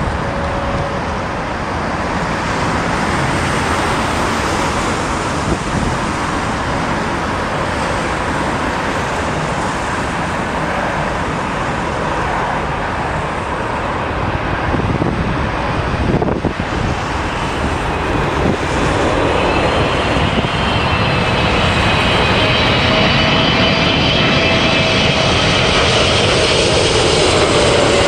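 Boeing 777-300ER's GE90 jet engines whining on approach to land, growing slightly louder over the last third with tones that slowly fall in pitch, over steady heavy wind rumble.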